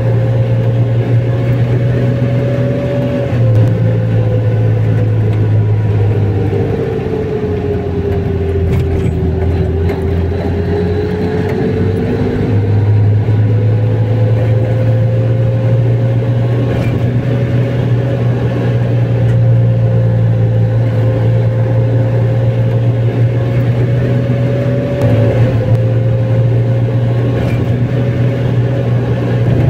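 Car driving along a road, a steady engine and road drone with a whine that drops in pitch and then rises again.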